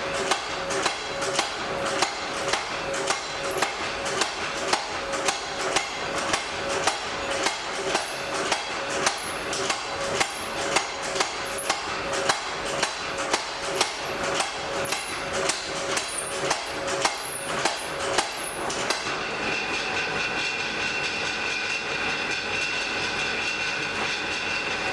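Blacksmith's hammer striking metal on an anvil in a steady rhythm, about one and a half blows a second, each with a short ring. The hammering stops about nineteen seconds in, leaving a steady rushing noise with a faint high whine.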